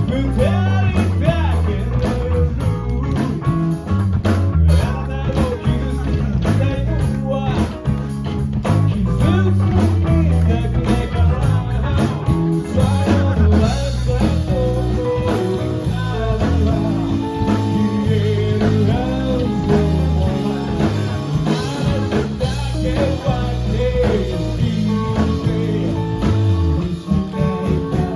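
Live rock band playing a song: electric guitar and bass with a singer's voice over a steady beat.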